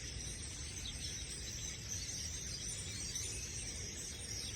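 A distant flock of birds calling in a steady high chatter, with a low rumble underneath.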